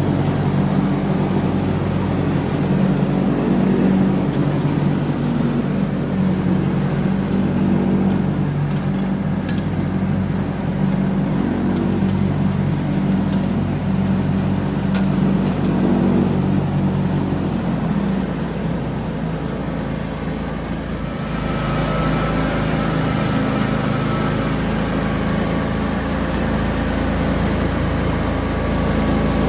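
John Deere riding lawn mower's engine running steadily under mowing. About 18 seconds in, the engine note changes and dips, then settles into a different steady hum with more hiss.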